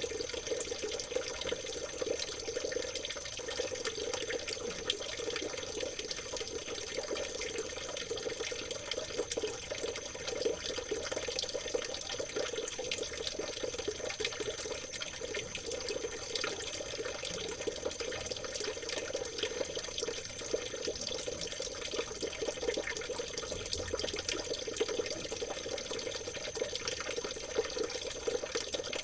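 Stream water trickling and babbling steadily, without a break.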